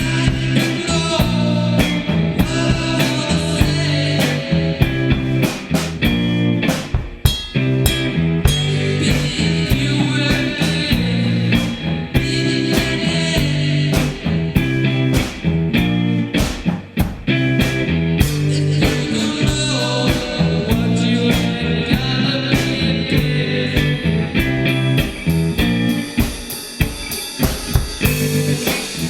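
Rock band playing loud, blues-tinged psychedelic rock: electric guitar and bass over a steady drum kit beat.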